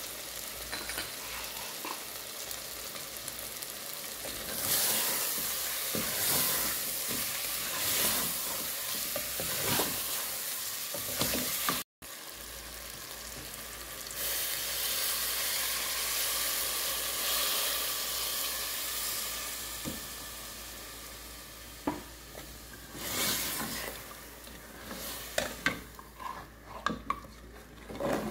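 Mutton pieces sizzling as they fry with whole spices in a metal pot, stirred with a spatula that scrapes against the pot. The sizzle swells and eases in stretches and cuts out for an instant about twelve seconds in; near the end it dies down and sharp knocks and scrapes of the spatula stand out.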